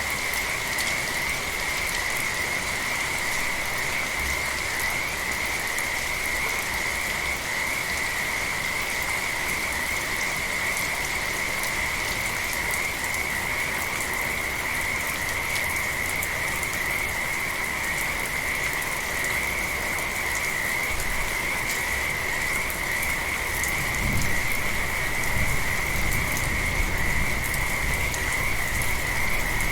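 Frogs calling in an unbroken, high-pitched chorus over gentle rain with scattered drips. A low rumble comes in near the end.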